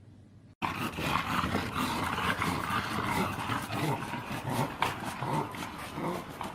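A dog making rough, growly vocal noises in a long run of short pulses, starting abruptly about half a second in.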